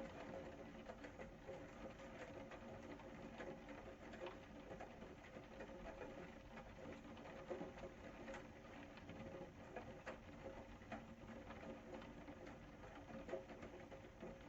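Rain falling: a quiet, steady patter of many small drops, with scattered louder drips standing out now and then.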